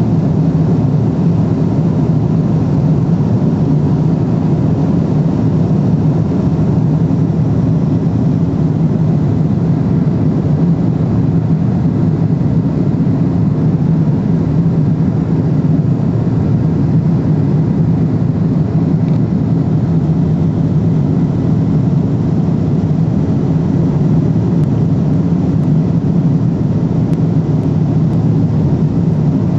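Steady cabin drone of a Boeing 777-300ER in cruise: engine and airflow noise heard from inside the cabin, loud and even throughout, deepest around a low hum.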